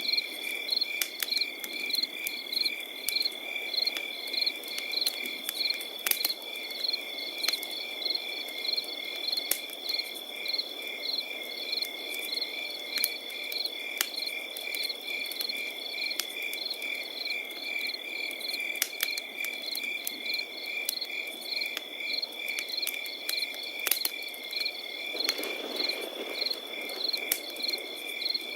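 Crickets chirping: one steady high trill under rhythmic, evenly repeated chirps. A campfire crackles over a soft low rush, with scattered sharp pops.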